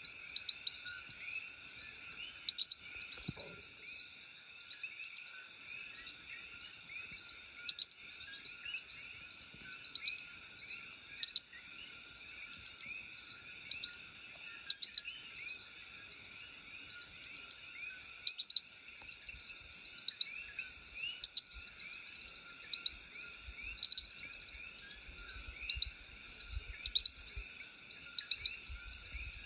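Chorus of coquí frogs: many short, high-pitched calls overlapping without a break, with one louder nearby call standing out about every two to three seconds.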